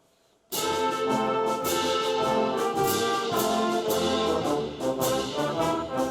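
School band, led by brass, comes in suddenly about half a second in after near silence and plays a loud, lively passage full of short accented notes and sharp strikes.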